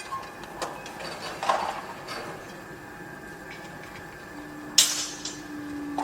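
Construction site noise: scattered metallic knocks and clanks over a steady machine whine, with one loud sharp impact near the end.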